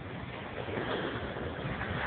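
Steady rushing noise of wind buffeting the microphone, swelling and easing.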